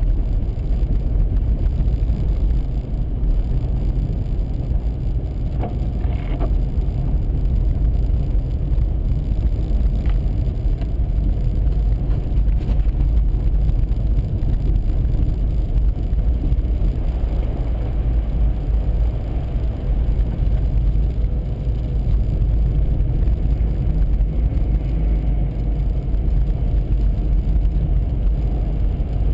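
Steady low rumble of a car driving at road speed, engine and tyre noise heard from inside the cabin. Two faint ticks sound, about six and ten seconds in.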